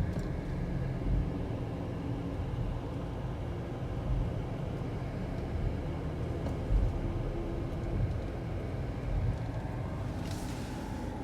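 Steady low rumble with a few soft thumps scattered through it.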